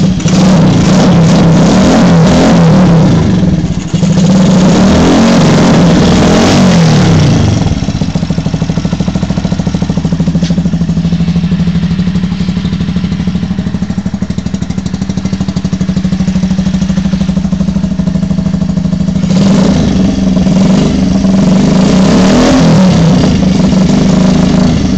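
150cc motorcycle engine just started on choke, running and revved up and down a few times in the first several seconds. It settles to a steady idle, then is revved again a few seconds before the end.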